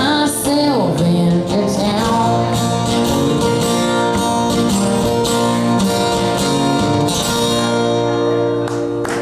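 Live country band with guitar and a woman singing, closing a song. Her voice slides down about half a second in, the band holds a long final chord, and the music stops just before the end.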